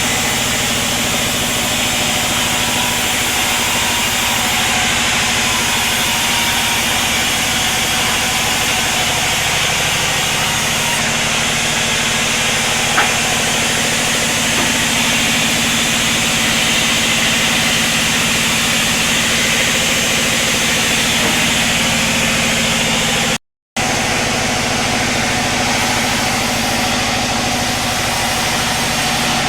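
Sawmill machinery running steadily: an engine hum under a constant broad hiss. It drops out to silence for a moment about three-quarters of the way in.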